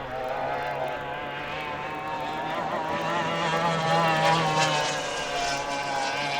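Several racing hydroplanes' engines running at high speed, their overlapping pitches wavering as the boats pass. The sound grows louder to a peak about four seconds in, then eases off a little.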